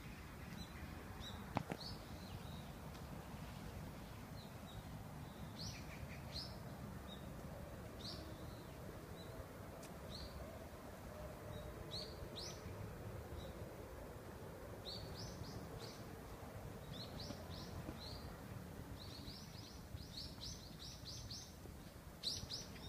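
Small birds chirping in short high notes, scattered at first and coming thick and fast near the end, over a low steady outdoor background noise. One sharp click about a second and a half in.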